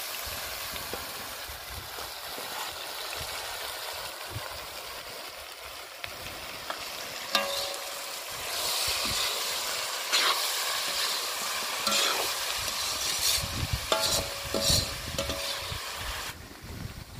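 Washed goat tripe (boti) pieces frying in hot oil with onion and ginger-garlic paste in a kadai, a steady sizzle stirred with a metal ladle that scrapes and knocks against the pan. The sizzle grows louder about halfway through and stops shortly before the end.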